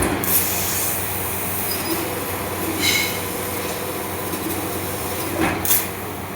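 CNC laser cutting machine running: a steady hum and hiss, broken by a few brief sharp sounds about half a second in, around three seconds in with a short whine, and near the end.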